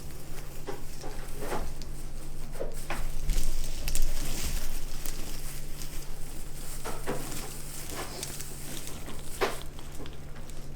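Artificial pine wreath's branches being bent open and fluffed out by hand: irregular rustling and scraping of the stiff plastic needles, loudest a few seconds in.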